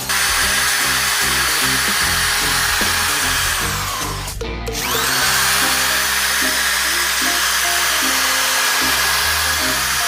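Electric drill running at high speed with a steady whine. Just past four seconds in it slows almost to a stop, then spins back up to full speed.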